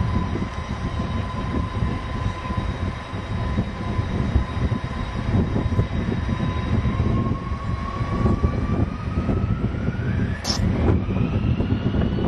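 Boeing 747-200 jet engines running with a deep rumble and a steady whine; about seven seconds in the whine rises steeply in pitch and levels off higher as the engines spool up to higher power.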